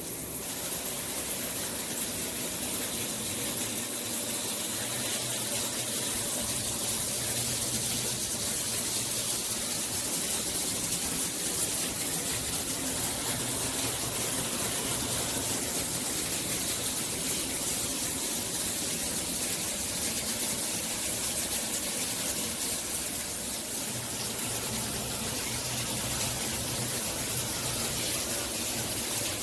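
Shower running: water spraying steadily from a Hibbent rainfall/handheld shower head combo, an even hiss of falling water.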